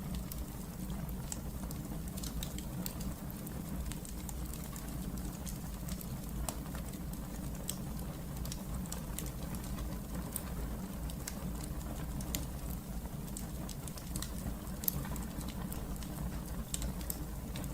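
Wood fire burning in a fireplace: scattered sharp crackles and pops over a steady low rumble, with one louder pop about fifteen seconds in.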